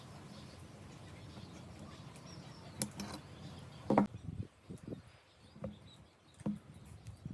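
A steady low hum with a few sharp clicks; the loudest click comes about four seconds in, after which the hum stops and several short knocks follow.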